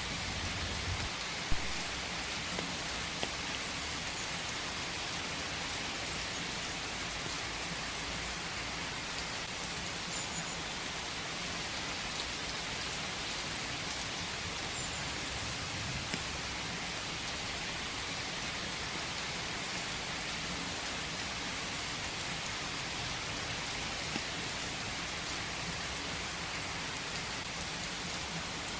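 Steady rain falling in a forest: an even hiss with scattered drop ticks, and one sharper tick about a second and a half in.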